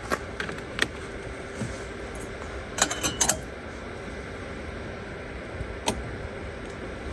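Scattered clinks and clatters of small hard items being handled: a single click near the start, a quick cluster of clinks about three seconds in, and one more near six seconds, as coffee-making gear is set up. A steady background hum runs underneath.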